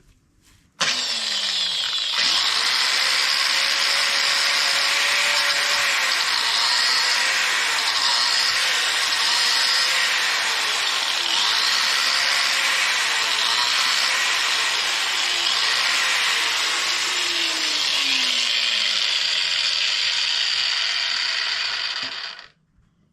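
A power tool spinning a wire wheel against steel, brushing the torque converter's mounting surfaces clean for welding. It starts about a second in, its whine dips each time it is pressed into the work and recovers, and it stops shortly before the end.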